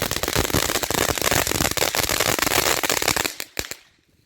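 A consumer firework going off with a dense, rapid run of cracks and pops. The crackling stops about three seconds in, with a few last pops just after.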